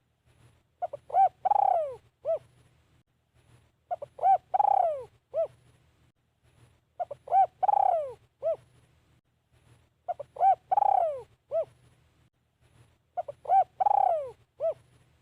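Spotted dove cooing, five phrases about three seconds apart, each made of a couple of short coos, a longer falling coo and one short closing note.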